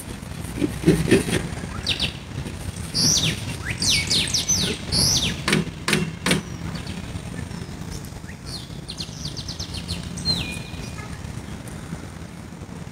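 Birds chirping in trees: a run of short, sharp high chirps and quick sweeps in the first half, then a fast trill and a single falling whistled note about ten seconds in, over a steady low hum.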